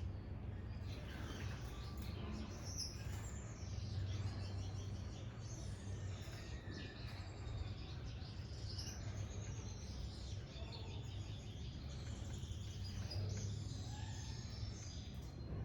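Mixed aviary finches chirping and calling, many short overlapping calls and quick rising and falling notes, over a steady low hum.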